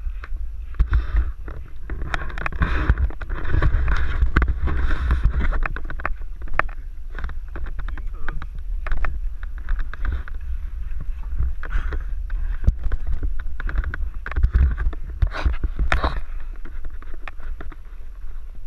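A horse's breathing in repeated noisy puffs and snorts, chuffing like a steam locomotive, over a heavy low rumble of wind on the microphone.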